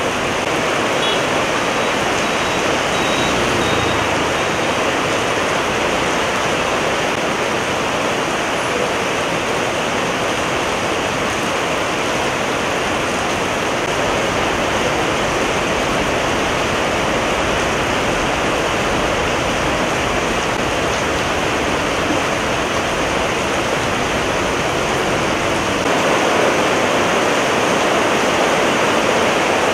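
Heavy rain falling steadily in a downpour, an even hiss of water.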